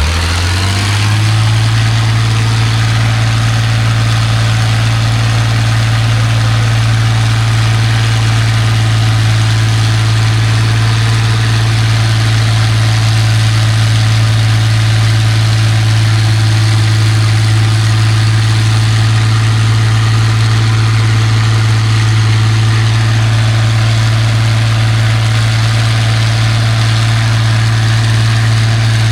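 A truck engine idling steadily, a constant low drone that does not change in pitch or loudness and is never revved.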